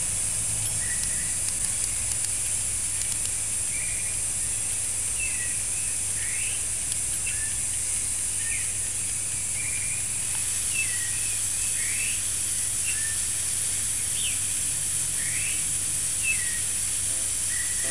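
Small birds chirping many times in short rising and falling calls, over a steady hiss from the pressure cooker's valve as it vents steam at pressure.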